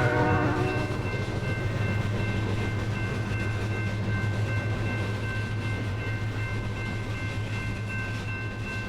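A KCSM diesel freight train running by, giving a steady low drone with a few faint, steady high tones above it.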